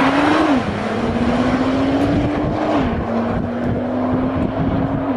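A car's engine accelerating hard and upshifting: its pitch climbs, drops at a gear change about half a second in, climbs again, and drops at another shift near three seconds before holding steady.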